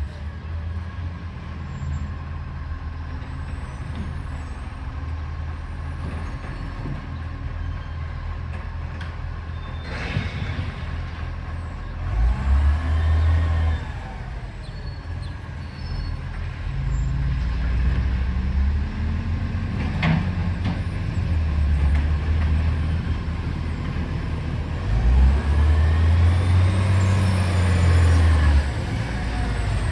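Garbage truck's diesel engine running with an exhaust leak, rising in revs several times in loud surges, with a sharp knock about ten seconds in and another about twenty seconds in.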